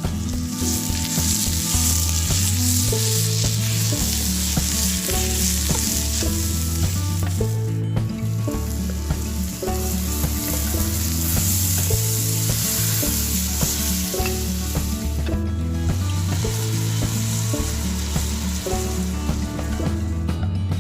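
Food sizzling and frying in a hot cast iron pan, with background music and a stepping bass line underneath.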